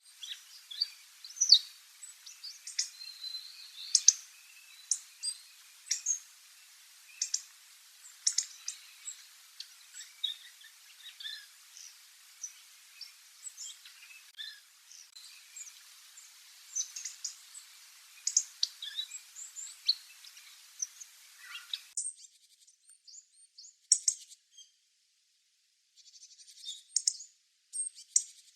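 Hawfinch giving many short, sharp calls at irregular intervals over a faint background hiss. The hiss stops about 22 seconds in, and a few seconds of silence follow before more calls near the end.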